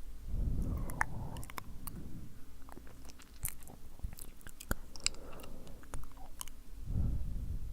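Close-miked ASMR mouth sounds: wet, sticky clicks and smacks of lips and tongue, scattered irregularly. There is a soft bout of blowing into the microphone about half a second in, and another near the end.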